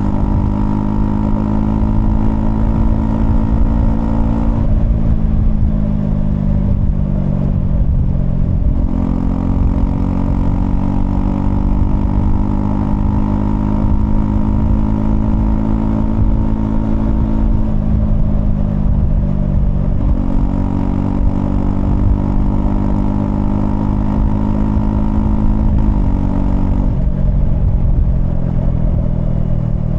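Honda CL250 motorcycle's engine running under way at a steady road pace. The engine note falls three times, about a quarter, halfway and most of the way through, and picks up again after the first two.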